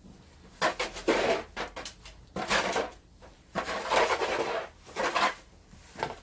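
A snow shovel scraping and scooping light, powdery snow: about six separate scraping strokes, each under a second long.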